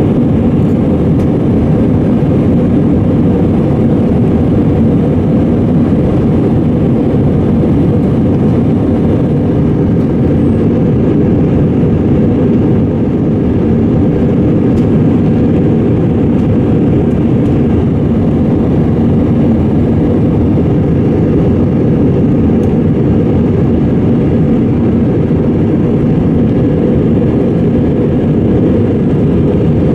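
Steady, loud rumble of an Airbus A320's engines and airflow, heard from inside the cabin.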